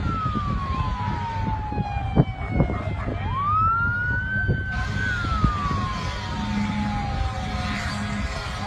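Emergency vehicle siren in a slow wail, rising quickly, holding high and then falling slowly over several seconds, twice over, with a steady low rumble beneath. A couple of sharp knocks come about two seconds in.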